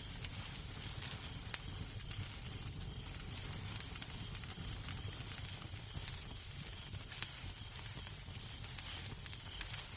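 Wood fire crackling in a fireplace: a steady soft hiss and low rumble with irregular sharp pops and snaps.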